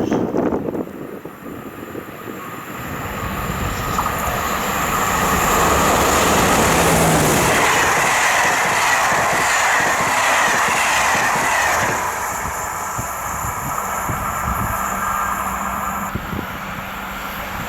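Electric train passing along the line, building up, loudest for several seconds in the middle, then falling away.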